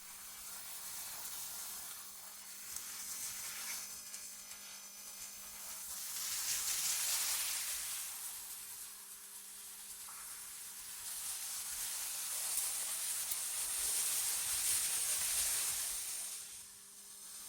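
AI-generated wind: a hissing rush that swells and fades in slow gusts, rising about six seconds in and again from about eleven to sixteen seconds, over a faint steady low hum.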